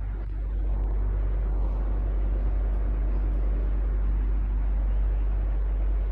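Electric fan running steadily: a low, constant hum under an even whoosh of moving air, a little louder from about a second in.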